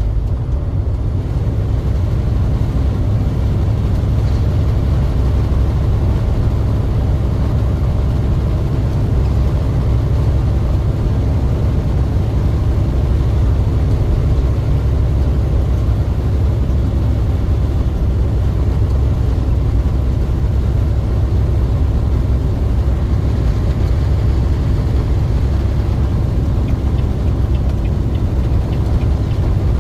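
Truck on the move: a steady, loud low rumble of engine and road noise that does not change.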